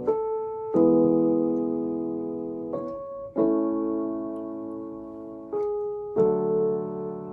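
Slow piano intro: three times over, a single note is struck and then a full chord a moment later, each left to ring and fade.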